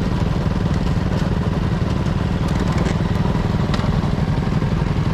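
125 cc motorcycle engine running steadily with a fast, even exhaust pulse.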